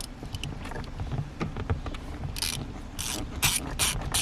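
Ratchet on a 14 mm socket working loose a shifter mounting bolt: faint scattered ticks at first, then about halfway through four short bursts of pawl clicking about half a second apart as the handle is swung back and forth.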